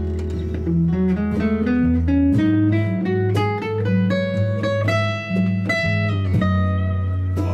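Instrumental break in a live acoustic song: acoustic guitar picking a melody over strummed chords, with a bass line underneath.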